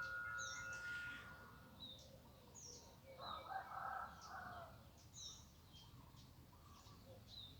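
Small birds chirping, short high calls repeating every second or so, with a rougher, louder call about three seconds in.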